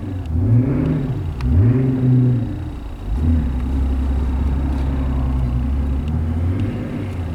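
Mercedes-Benz SL65 AMG's twin-turbo V12 pulling away in reverse: the engine note rises and falls twice, then settles to a steady idle about three seconds in.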